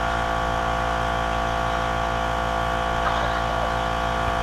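A steady electrical-sounding hum and buzz, several fixed tones over a low drone, unchanging in pitch and level.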